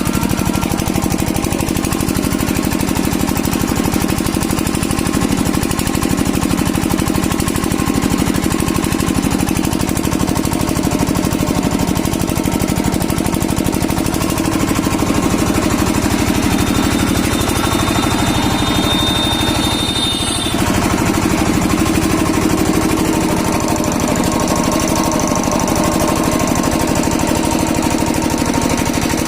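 Kirloskar diesel engine running steadily, with a loud, fast, even knocking beat throughout.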